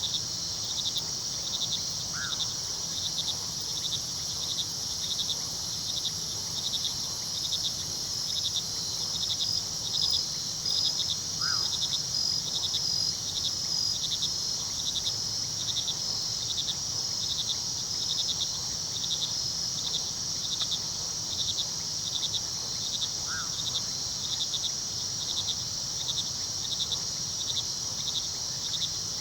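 Night chorus of crickets: a steady high trilling with one cricket chirping in an even, regular rhythm. A few short, single calls stand out every several seconds, over the low steady rush of river water.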